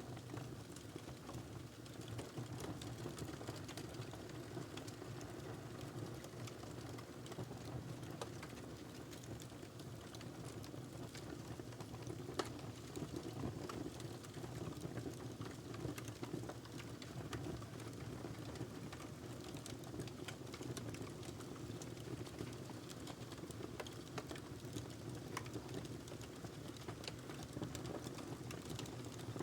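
Wood fire crackling: scattered sharp pops and snaps over a steady low rumble, with one louder pop about twelve seconds in.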